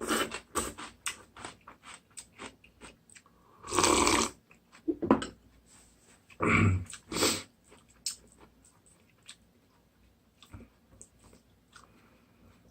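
Close-miked eating of instant ramyeon noodles: wet chewing and mouth clicks, with a few louder slurps about four seconds in and again around six to seven seconds in. It goes quieter in the second half, with only occasional small clicks.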